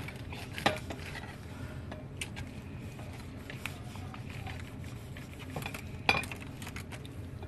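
Spoon knocking and clinking against a dish of casserole while it is being scooped: scattered light knocks and ticks, with two sharper ones, just under a second in and about six seconds in.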